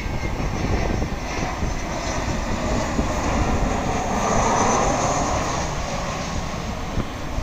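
Airliner's engines roaring as the plane passes close by, the sound swelling to a peak about four to five seconds in and then easing off.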